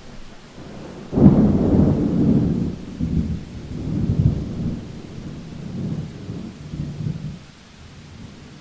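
A thunderclap breaks suddenly about a second in and rolls on as low rumbling in several waves for about six seconds before fading, over the steady hiss of rain.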